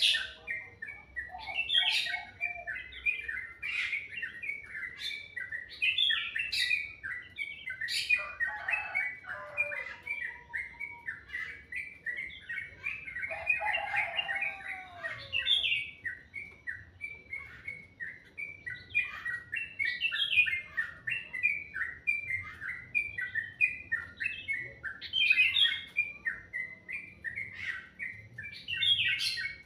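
Songbirds chirping and singing without pause: a rapid run of short high chirps, with sharp piercing notes every second or two and a lower warbling phrase now and then.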